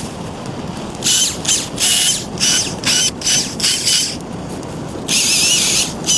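A handheld power tool triggered in about seven short bursts, each with a high whine, then run once for about two seconds near the end.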